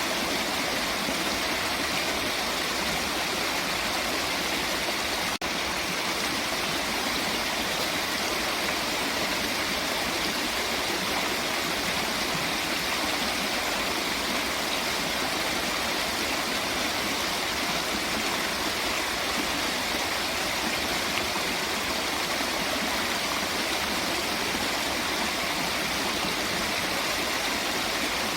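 Steady, even rush of running water, with one very brief dropout about five seconds in.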